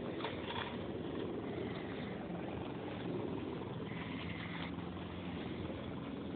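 A car engine running steadily at idle, a low even hum.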